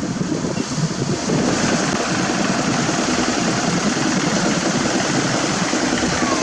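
Diesel engines of heavy paving machinery running steadily, with a broad hiss that grows louder about a second and a half in.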